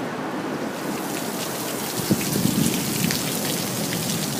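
Heavy rain pouring down, the splash of the drops growing louder about a second in. A single sharp knock sounds about two seconds in.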